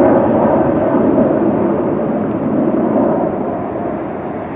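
Jet airliner's engine noise: a loud, steady rush that slowly fades as the plane moves away.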